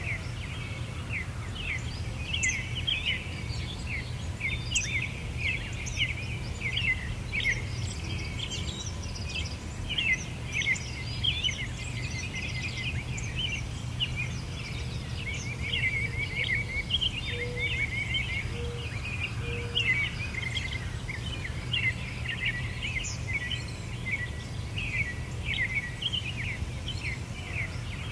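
Many birds chirping in a dense, continuous chorus of short quick calls, over a steady low rumble.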